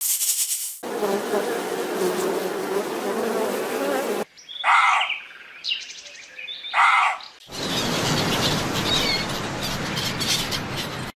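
A dense buzzing drone for about three seconds, then two short loud calls about two seconds apart. After that come short high chirps over a steady rushing noise.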